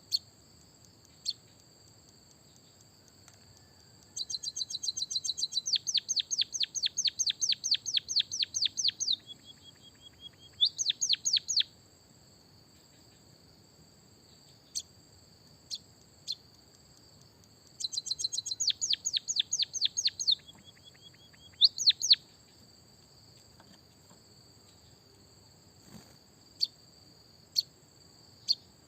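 White-headed munia singing. There are two long bouts of rapid repeated high chirps, about six a second, each ending in a short held note and a few quick rising strokes, with single sharp chirps in between. A faint steady high-pitched ringing runs underneath.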